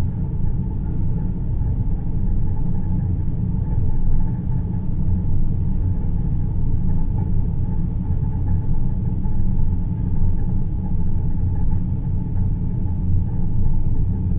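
Deep-space sleep ambience: a steady, loud low rumbling drone with a faint higher hum above it, unchanging throughout and with no music.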